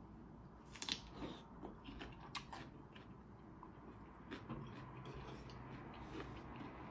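Close-miked mouth sounds of a woman chewing seafood-boil food, with sharp wet clicks and smacks, the strongest about one second in and again around two and a half seconds.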